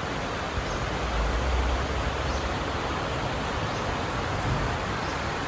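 Steady rushing noise of outdoor ambience, an even hiss across the range over a low rumble that swells about a second and a half in.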